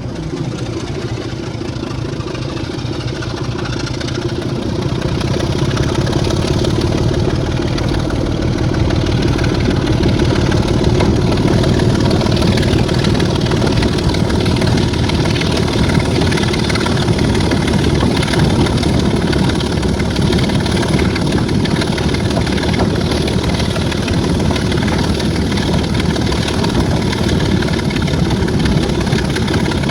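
Class 26 diesel locomotive's Sulzer six-cylinder engine running under power, growing louder over the first ten seconds and then holding steady.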